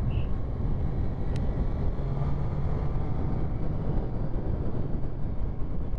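Triumph Street Triple 675's three-cylinder engine and wind noise from a rider's helmet at road speed: a steady, even rush of sound with no change in pace.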